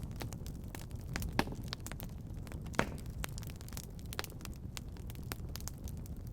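Wood fire burning in a fireplace: a steady low rumble of flames with a dense scatter of small crackles, and two louder pops about a second and a half and about three seconds in.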